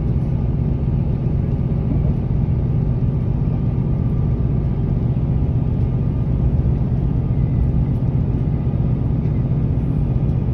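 Steady low rumble of a moving train, heard from inside the carriage, with a faint steady whine above it.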